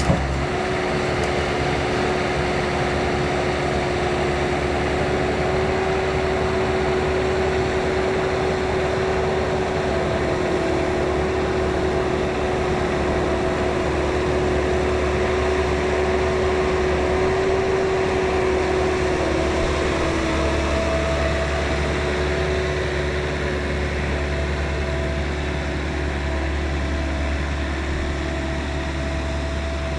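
Bobcat 773 skid-steer loader running at a steady engine speed: a constant engine drone with a steady whine over it.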